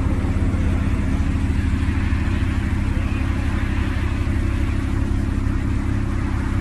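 Car engine idling steadily: an even low rumble with no revving.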